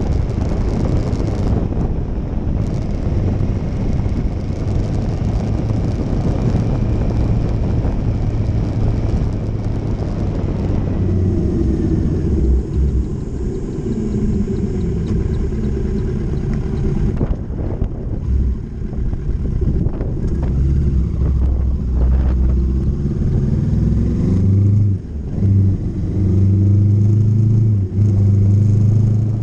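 Motorcycle engine running on the move, with wind noise on the microphone. From about ten seconds in the wind eases and the engine note comes through more clearly, its pitch rising and falling with brief dips in loudness.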